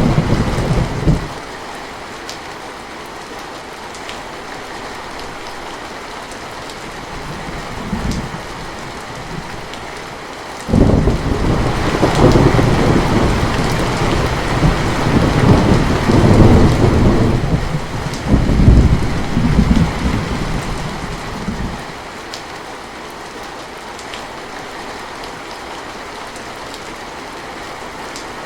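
Steady rain with rolling thunder. A rumble dies away about a second in, a faint one follows near the middle of the first half, and then a loud peal breaks in suddenly and rolls on in several surges for about eleven seconds before fading back to the rain.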